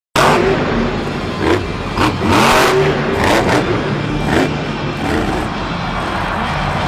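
A heavy vehicle's engine revving under load, with a dense roar and several brief louder surges between about one and a half and four and a half seconds in.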